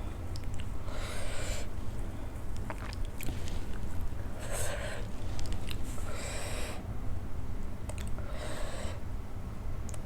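Close-up mouth sounds of a person eating idli: small wet chewing clicks, with a breath about every two seconds.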